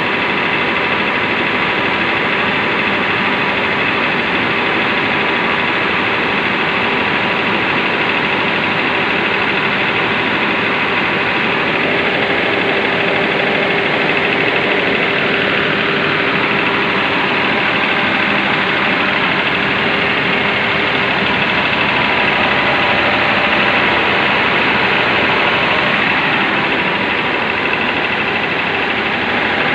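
Cummins KTAA19 six-cylinder turbocharged diesel engine running steadily on a test run.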